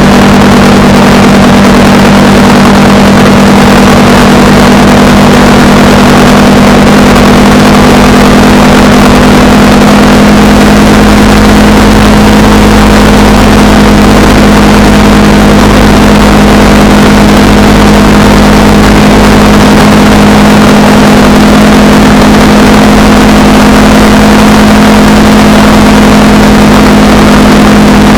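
Honda Rebel 300's single-cylinder engine running at a steady cruising speed, heard from on the bike along with loud, even wind and road noise.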